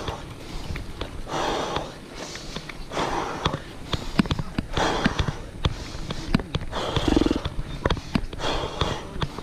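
Cyclist breathing hard on a steep climb, a heavy exhale about every second and a half to two seconds, with sharp clicks and rattles from the bike throughout and a short voiced grunt about seven seconds in.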